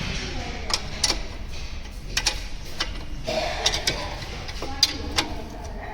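Irregular sharp metallic clicks and taps from hand tools at work on the car's front suspension and axle, about a dozen spread unevenly, over a steady low workshop hum.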